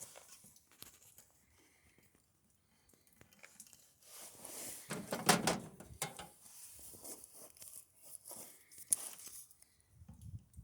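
Tearing and crinkling noises of material being cut and handled, in a few bursts after about three seconds of near silence.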